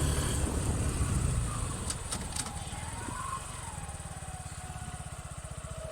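Suzuki Gixxer 150's single-cylinder engine idling, a steady low putter of even pulses, as music fades out over the first second or so. A few light clicks about two seconds in.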